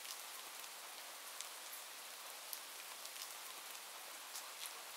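Steady rain: an even hiss with individual drops ticking sharply now and then.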